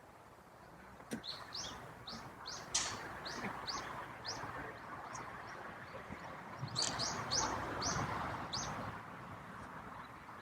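A bird calling in two runs of quick, repeated high chirps, about three a second, over a steady rushing noise. A single sharp click comes about a second in.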